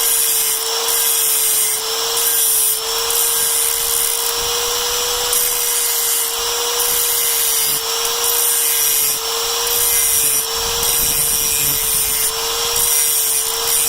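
Metal being filed in repeated scraping strokes, about one a second, as the end of a steel threaded rod is sharpened to a point. A steady, slightly wavering whine runs underneath.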